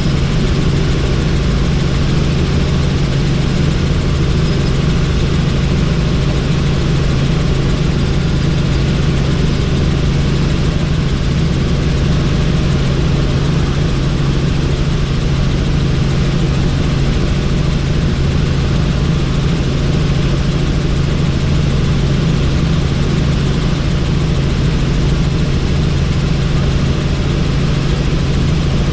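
Helicopter in flight heard from on board: steady, loud rotor and turbine-engine noise with a constant low hum and no change in pitch.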